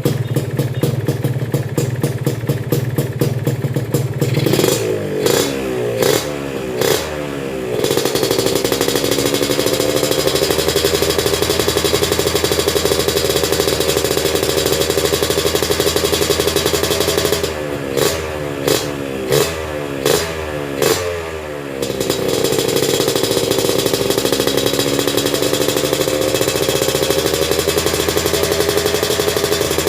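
Yamaha RX-King 135cc two-stroke single-cylinder engine running through an aftermarket racing exhaust. It idles at first, then is blipped several times in quick succession and held at raised revs. A second run of quick blips follows, and then it is held at raised revs again.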